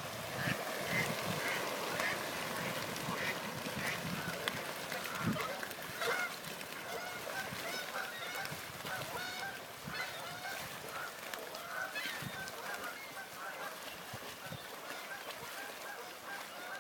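A flock of birds calling together: a dense, continuous chorus of many short overlapping calls.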